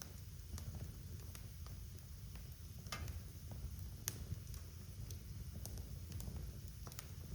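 Wood fire crackling in a fireplace: faint, irregular pops and snaps over a steady low rumble, with sharper pops about three and four seconds in.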